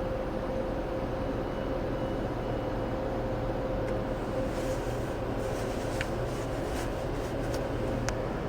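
Storm touch-free automatic car wash machinery running: a steady mechanical drone with a held hum tone, and a few faint clicks in the second half.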